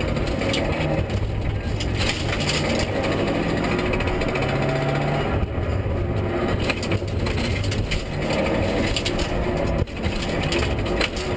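Mitsubishi Lancer EVO III rally car's turbocharged four-cylinder engine heard from inside the cabin, under hard acceleration, its note rising and dropping with gear changes. Occasional sharp knocks come through it.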